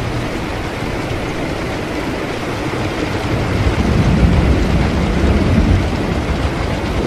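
Steady rain falling, with a low rumble of thunder swelling about halfway through.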